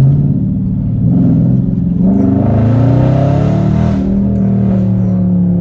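Dodge Charger Scat Pack's 392 HEMI V8, straight-piped with gutted cats, accelerating hard: the exhaust note climbs in pitch over the first few seconds, then settles into a steady drone.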